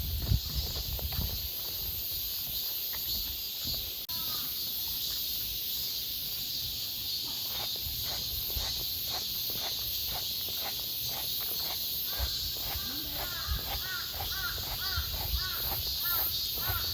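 Steady chorus of cicadas, with footsteps of a person out walking; from about twelve seconds in, a bird calls over and over in short, quick notes.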